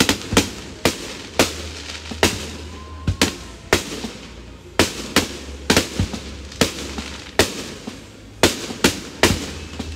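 Fireworks going off in a rapid, irregular series of sharp bangs, about one or two a second, each trailing off briefly, over a steady low hum.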